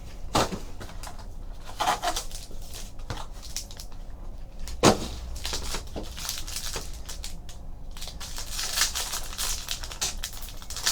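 Trading card box packaging and pack wrappers being opened and handled: irregular crinkling and tearing of wrapper, with a sharp snap about five seconds in.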